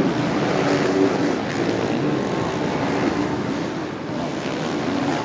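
450-class four-stroke motocross bikes' engines running hard on the track, heard played backwards.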